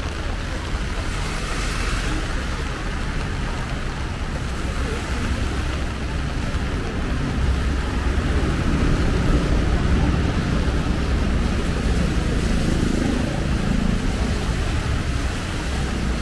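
Heavy rain with large drops crackling on an umbrella overhead, a dense steady patter, over a low rumble.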